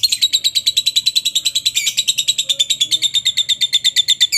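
Lovebird in a long 'ngekek': a fast, unbroken chatter of sharp high notes, about fifteen a second, that stops abruptly near the end.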